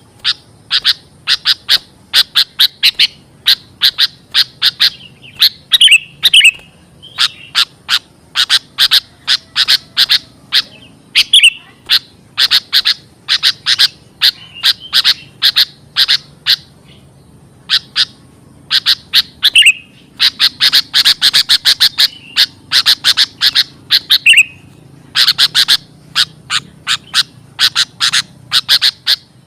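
Sooty-headed bulbul (kutilang) giving loud, agitated calls: rapid runs of sharp, scratchy chirps, several a second, with short breaks between runs. This is the kind of noisy calling used as a lure to draw other bulbuls in.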